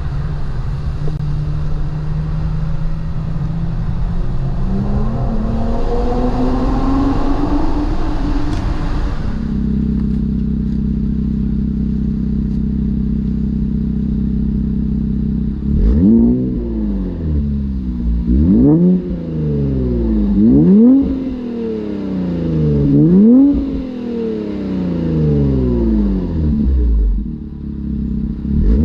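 Infiniti Q50 Red Sport 400's twin-turbo V6 through a Motordyne cat-back exhaust and AMS lower downpipes: first pulling with its pitch climbing, then settling to a steady idle about a third of the way in, then revved in five quick blips through the second half, each rising sharply and falling back.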